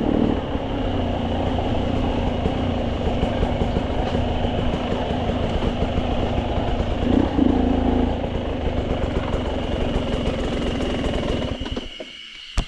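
Dirt bike engine running steadily at low speed; the sound drops away sharply near the end, followed by a short click.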